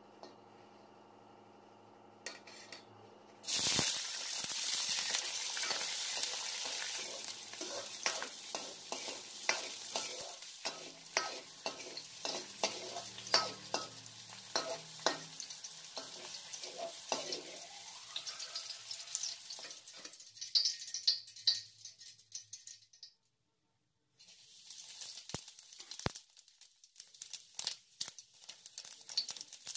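Chopped green capsicum dropped into hot ghee in a kadai, starting a sudden loud sizzle about three and a half seconds in that goes on as frying, with a metal ladle clicking and scraping against the pan as it is stirred. After a brief break near the end, seeds and whole dried red chillies sizzle more quietly in ghee, again with ladle clicks.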